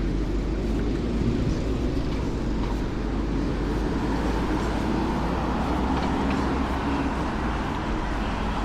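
Steady low rumbling outdoor noise, with no clear events standing out.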